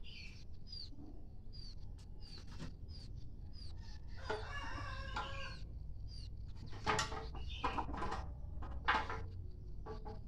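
Village rooster crowing once about four seconds in, a call of about a second and a half, followed by two short loud calls from the flock. Faint high chirps repeat about twice a second throughout.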